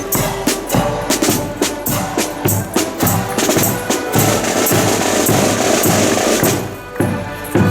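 Marching accordion band playing: accordions sounding a tune over snare drums and bass drum beating time. In the second half the drums go into a sustained roll, then drop away briefly before the beat comes back in just before the end.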